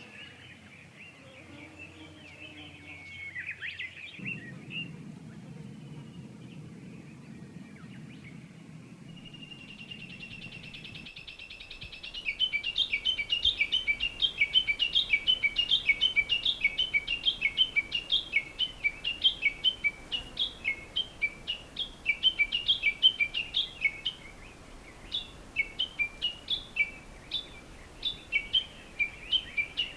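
A bird calling: faint song at first, then from about twelve seconds in a long, loud run of short, quickly repeated chirps at about three a second, each falling slightly in pitch.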